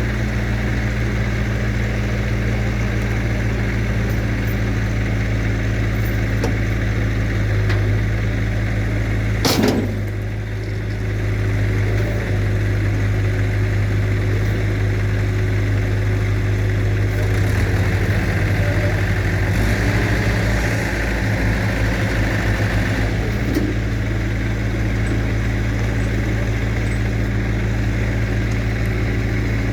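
Heavy vehicle's engine idling steadily, with a sharp click about ten seconds in.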